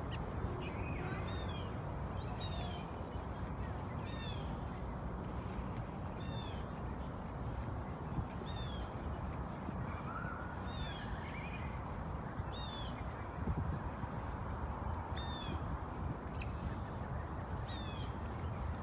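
A single bird calling over and over, a short high note repeated roughly once a second, over a steady low rumble.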